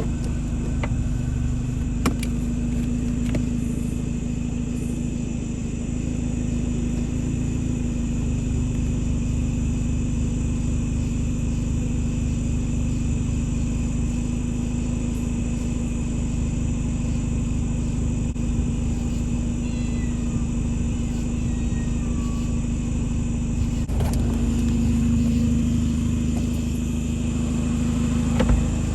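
Car engine running steadily with an even hum, with a few faint high chirps about two-thirds of the way through and a short knock near the end.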